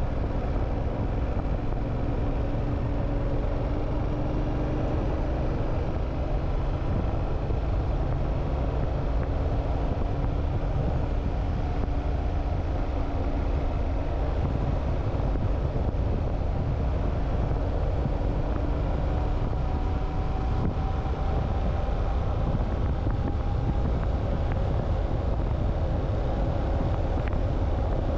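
Motorcycle riding along under a steady low rush of wind and road noise, its engine note drifting slowly down and later rising slightly.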